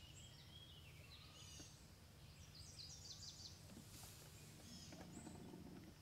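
Quiet outdoor ambience: small birds chirping in the trees, with a quick series of falling notes about halfway through, over a low steady hum.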